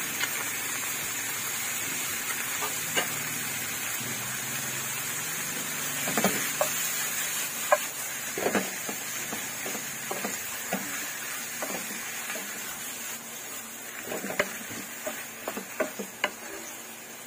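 Squid sizzling in hot oil in a non-stick pan. From about six seconds in come the clacks and scrapes of a spatula stirring and the pan being tossed over the gas flame. The sizzle eases toward the end.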